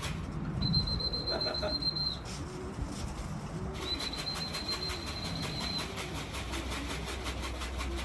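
Racing pigeons cooing in the loft, low rounded coos about once a second, with two long, steady high-pitched electronic beeps from the loft's electronic clocking system as arriving birds are registered.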